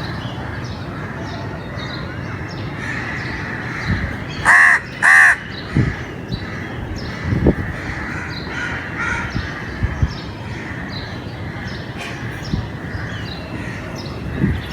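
A crow cawing twice in quick succession, two short loud calls about four and a half seconds in, over a steady background hum with faint bird chirps.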